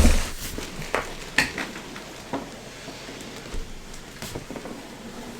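Packaging of a large boxed figure being handled: a few scattered light knocks with rustling in between.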